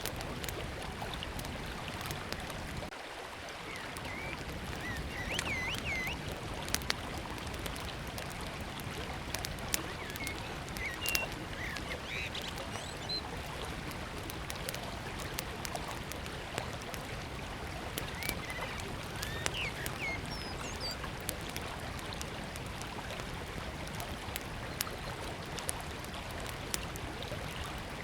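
Small wood fire crackling with scattered sharp pops over the steady rush of a flowing river. A bird chirps briefly a few times.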